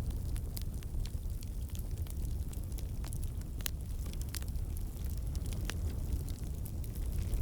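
Wood campfire burning: a steady low rumble with irregular sharp crackles and pops, one every second or so.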